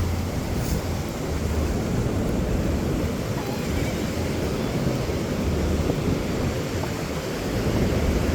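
Wind buffeting the microphone, with a low uneven rumble over the steady wash of ocean surf.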